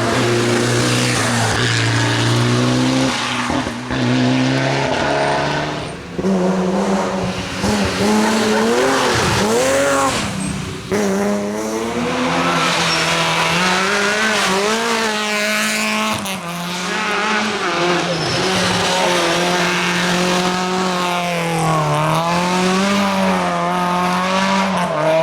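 Rally car engines at full stage pace, revving up and down as the drivers change gear and brake, with tyres squealing.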